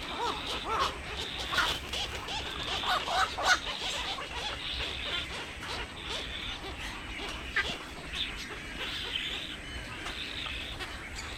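Birds calling with short, repeated calls, thickest in the first three or four seconds and scattered after that, over a steady background hiss.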